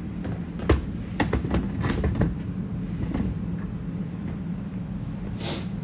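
A socket wrench working the skid-shoe bolts on a snow blower: a sharp metal click, a quick run of knocks and clinks, and a short scrape near the end, over a steady low hum.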